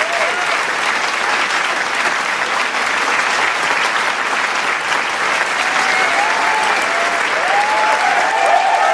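Large crowd applauding steadily, dense clapping with cheering voices mixed in. The shouts and whoops grow thicker over the last few seconds.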